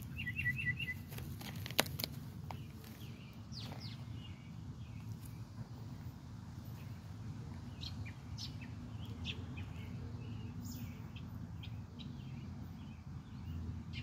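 Small birds chirping: a quick run of four short chirps at the start, then scattered short calls, over a steady low rumble. A single sharp click about two seconds in.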